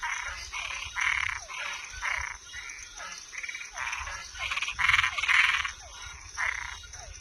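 A chorus of frogs calling in a quick run of short calls, about two a second, loudest around five seconds in, over a steady high-pitched background tone.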